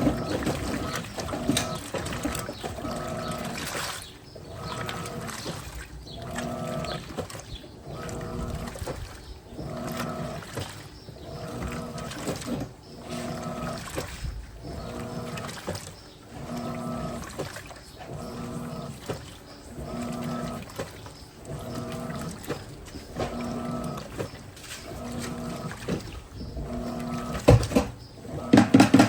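Electrolux Turbo Capacidade Premium 15 kg (LTP15) top-loading washing machine agitating a load: the motor hums in a burst with each agitator stroke, about one stroke a second, over the slosh of water and clothes.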